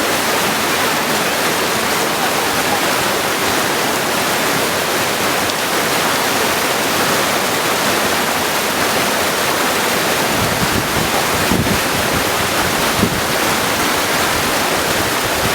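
Mountain stream rushing steadily over stones. About ten seconds in, a low rumble joins the rush.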